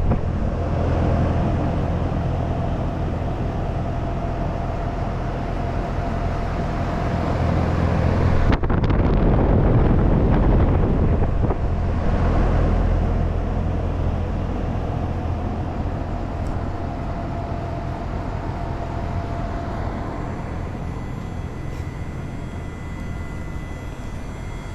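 2004 Sanyo (Airwell) heat pump running in heat mode: a steady low mechanical hum with a faint high tone and the rush of air. It grows louder about ten seconds in and slowly fades toward the end.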